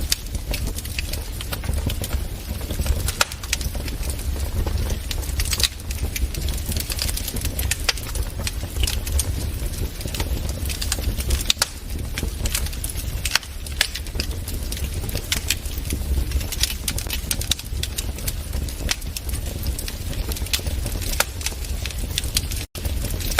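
Wood fire crackling in a fireplace: dense, irregular pops and snaps over a steady low rumble. The sound cuts out for an instant near the end.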